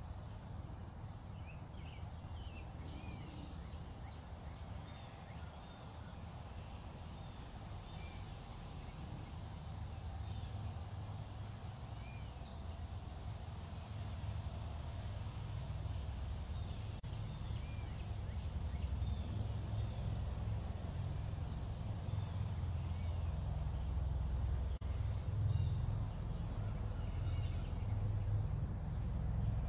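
Outdoor farm ambience: small birds chirping thin, high, arched notes every second or so, over a low rumble that grows louder in the second half.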